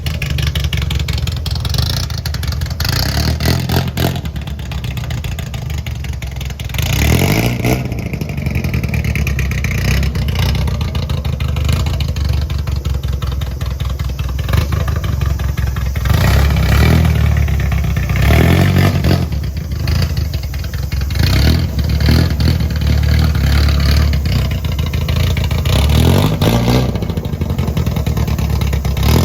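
Classic car's engine running through its newly fabricated one-off exhaust muffler, idling with a low steady note and revved up several times.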